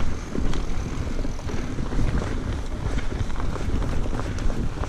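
Wind rushing over the microphone of a mountain biker's camera while riding a dirt trail, with a steady low rumble and scattered clicks and rattles from the bike.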